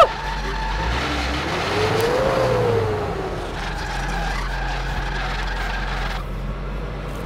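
Nissan 4x4 ute's engine running as it noses down a steep, muddy bank, its note rising once and falling back about two seconds in, over a steady rushing noise.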